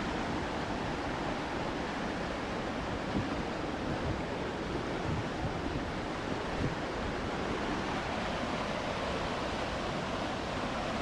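Steady rushing of a jungle stream's flowing water, with a few faint knocks.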